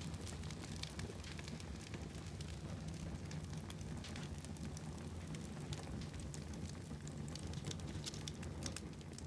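Wood fire in a fireplace crackling: frequent small irregular pops and snaps over a steady low rumble of the flames.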